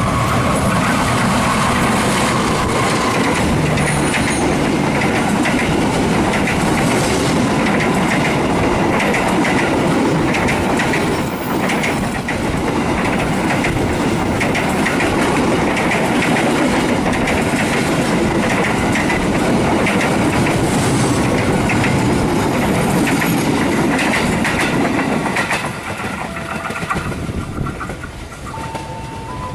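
Diesel-hauled passenger train passing close by at speed: a steady rumble with wheels clattering over the rail joints. The end of a horn blast is heard in the first few seconds, and the noise dies down from about 26 seconds in as the train moves off.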